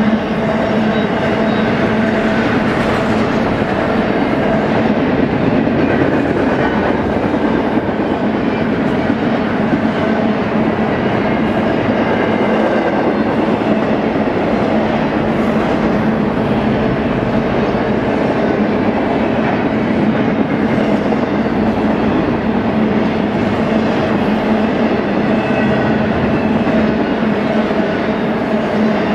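Double-stack intermodal freight train's loaded well cars rolling past, steel wheels on rail in a loud, steady rumble with a constant drone running through it.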